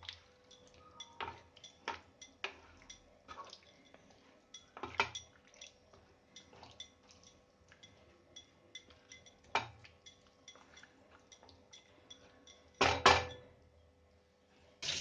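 Spatula clinking and scraping against a pan as chicken pieces are stirred in butter, in scattered light knocks, with one louder clatter near the end.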